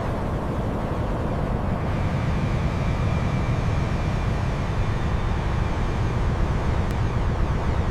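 Steady low rumble of an airplane's engines, with a faint thin whine joining about two seconds in.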